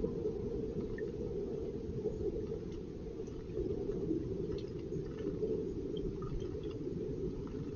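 Small garden stream running: a steady, low rush of water, with a few faint high ticks above it.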